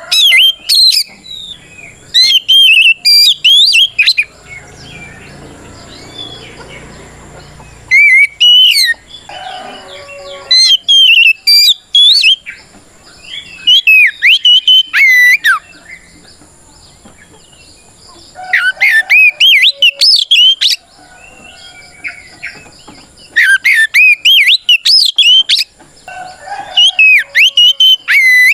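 Oriental magpie-robin (kacer) singing loud bursts of fast, varied whistled phrases, each lasting a second or two and repeated every few seconds. This is its loud challenging song, calling out a rival.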